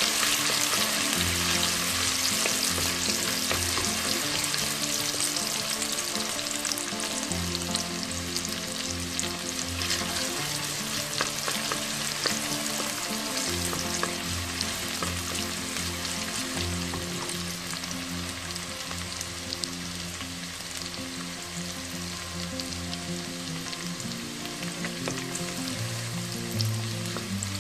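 Chopped onion frying in hot oil, a crackling sizzle that is loudest as the onion goes in and gradually settles as it is stirred with a wooden spoon.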